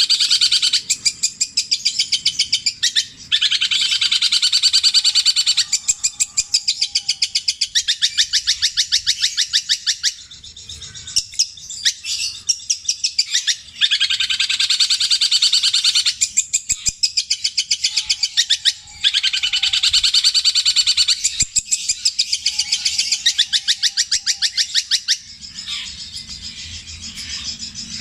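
Long-tailed shrike (cendet) singing long, fast rattling trills of high notes, phrase after phrase of several seconds each with short breaks between, repeating a mimicked Javan kingfisher (tengkek buto) call.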